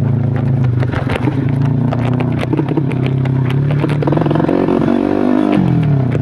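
Modified Yamaha Jupiter Z motorcycle's single-cylinder four-stroke engine, bored to 130cc, running steadily; it revs up about four seconds in and the revs drop away sharply near the end. Scattered knocks and clatter from the bike riding over rocks.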